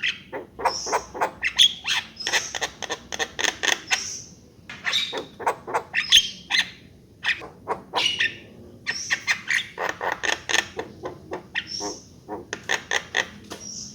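Javan myna (jalak kebo) calling: fast runs of harsh clicking, chattering notes mixed with short high whistles, in bursts with brief pauses.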